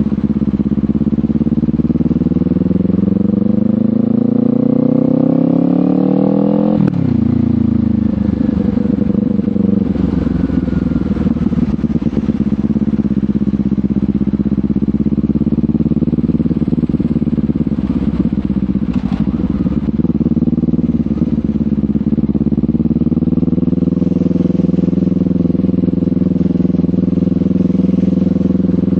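Kawasaki Ninja 500's parallel-twin engine through a LeoVince GP Corsa Evo slip-on exhaust, under way: the revs climb steadily for about seven seconds, then drop sharply. After that the engine cruises fairly steadily, with the revs dipping and rising again near the twenty-second mark.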